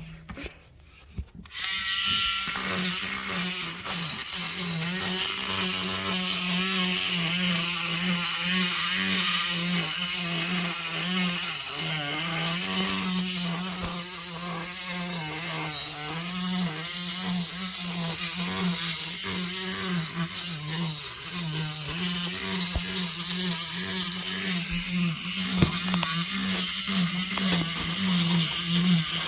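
A few light clicks, then a motor-driven machine starts about a second and a half in and runs steadily with a wavering hum and a broad hiss.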